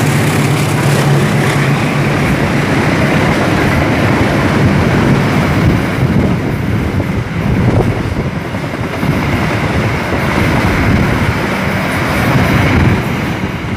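Coaches of a KAI passenger train rolling past on the tracks: a loud, steady rumble of wheels on rails, with a low hum in the first couple of seconds that fades out.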